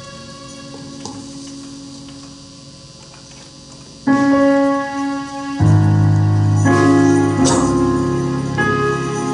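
Church keyboard playing slow held chords. A soft chord fades over the first four seconds, then louder chords come in about four seconds in, with deep bass notes joining about a second and a half later.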